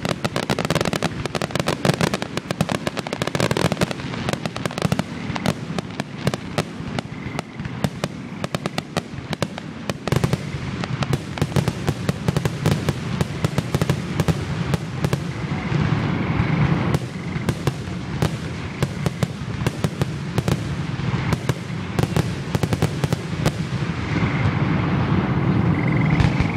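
Fireworks display: aerial shells bursting in a rapid, near-continuous barrage of bangs and crackles.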